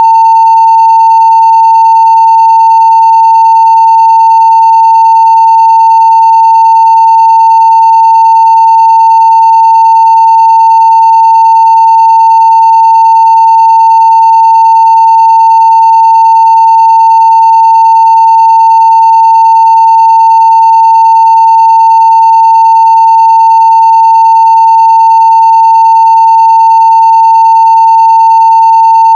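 Steady 900 Hz sine-wave test tone at full scale (0 dB), one continuous unchanging pitch with very faint higher overtones.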